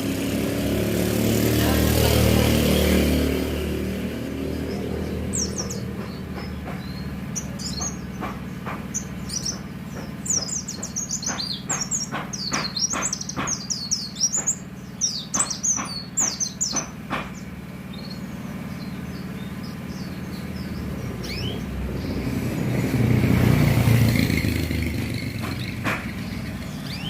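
White-eye (pleci) singing a fast run of high chirping notes for about ten seconds in the middle. Road vehicles pass at the start and again near the end.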